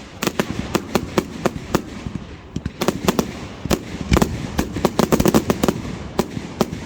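Fireworks going off: rapid, irregular sharp bangs and crackles. There is a brief lull about two seconds in, then a dense run of cracks about four to five seconds in.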